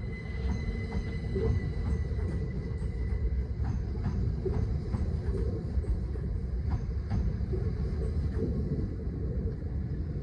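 Class 387 electric multiple unit pulling out of the platform and passing close by: a steady low rumble with irregular clicks from the wheels on the track, and a thin whine that fades away over the first few seconds.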